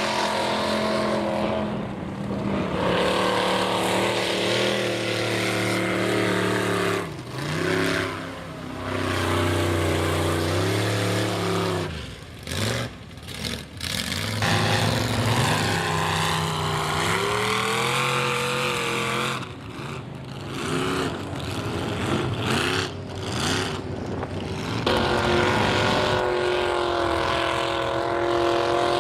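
High-horsepower mega mud truck engine with open headers revving hard, its pitch rising and falling, with several short drops as the throttle is let off. Near the end it holds a steady high rev.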